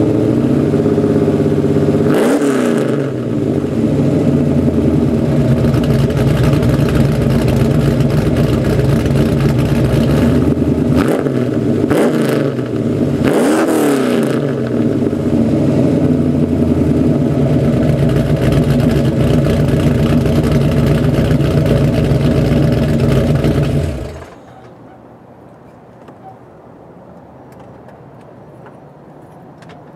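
1995 Trans Am's V8, breathing through long-tube headers, an off-road Y-pipe and a Magnaflow dual-muffler catback, idling with a lumpy note. It is revved and let fall back a few times, then shut off about 24 seconds in.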